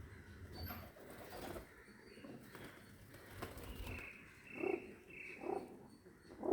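Pigeon cooing: three short, low coos about a second apart in the second half, with a faint high whistle just before them.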